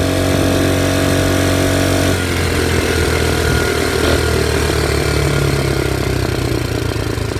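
Old Briggs & Stratton engine on a belt-drive motorized bicycle, running while riding. Its steady note changes about two seconds in.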